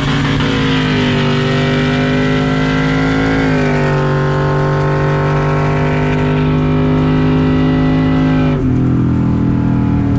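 Pickup truck's V8 engine running at high revs during a street drag race, its pitch stepping up about three and a half seconds in and dropping sharply near the end.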